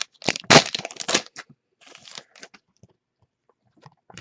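Trading cards and their plastic or foil packaging being handled close to the microphone: a run of loud crackling rustles in the first second and a half, then faint scattered clicks.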